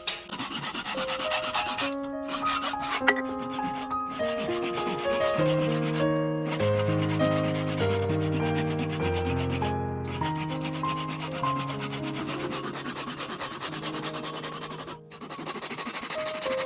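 Fast, repeated rubbing strokes on bamboo as it is worked by hand, over gentle piano background music. The rubbing breaks off briefly a few times.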